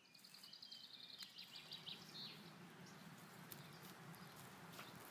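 Faint outdoor ambience fading in, with a bird's rapid high trill over the first two seconds and a few scattered short chirps after it.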